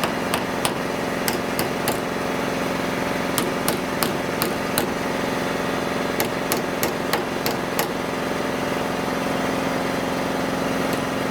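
Light hammer taps on sheet steel, in several runs of quick taps over the first eight seconds, over a steady machine hum.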